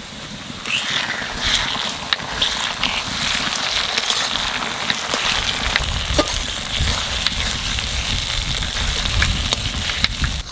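Ginger-garlic-chili paste sizzling as it hits hot oil and fried onions in an aluminium wok; the sizzle jumps up about a second in and then holds. A flat metal spatula stirs the paste, scraping and clicking against the pan.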